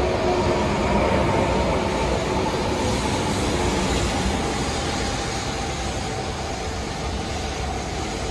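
E4 series MAX double-decker Shinkansen rolling slowly along the platform as it pulls in: a steady rumble of wheels on rail with a faint whine over it, easing off slightly as the train slows.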